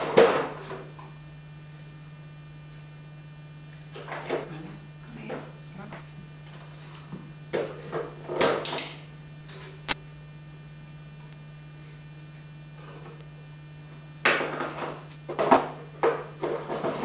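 A steady low electrical hum, with scattered short noises now and then and one sharp click about ten seconds in.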